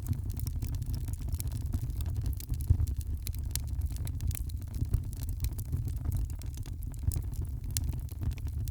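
Wood fire crackling, with frequent small sharp pops over a steady low rumble and one louder pop a little under three seconds in.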